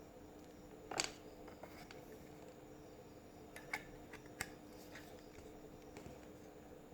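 A few light clicks and taps as a small plastic USB charger and its packaging are handled, the sharpest about a second in, over a faint steady hum.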